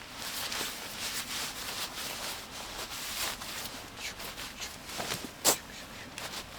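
Irregular soft rustling and handling noises, with one sharp click about five and a half seconds in.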